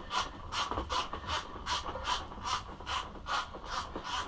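A hand tool worked back and forth in even, raspy strokes, about two and a half a second.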